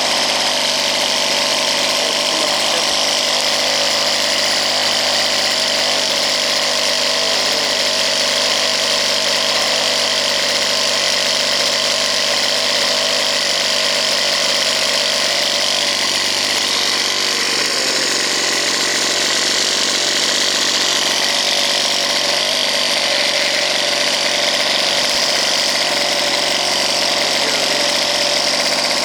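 Custom 20cc model-helicopter two-stroke engine, stroked to 22cc and fitted with a V2 muffler, running steadily at speed while it spins a 14x6 propeller on a test stand.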